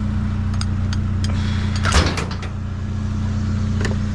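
A vehicle engine idling steadily, with a few sharp metallic clicks and one louder clank about two seconds in.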